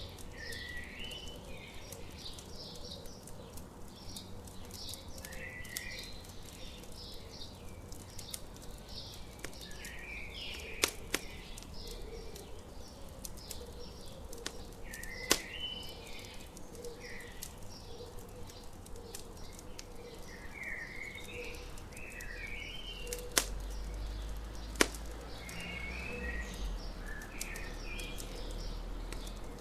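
Campfire crackling, with a few sharp pops that are the loudest sounds, under morning birds chirping and singing throughout.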